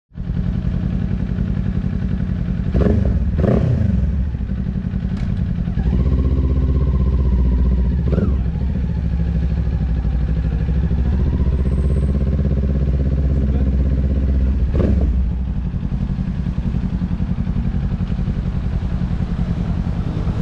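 Kawasaki Ninja 400's parallel-twin engine idling steadily, with four quick throttle blips: two close together a few seconds in, one about eight seconds in and one near fifteen seconds.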